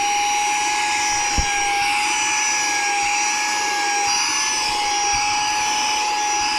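Saker 3-in-1 cordless mini handheld vacuum with a brushless motor, running at regular speed with no attachment: a steady high whine over a rush of air. One light click about a second and a half in.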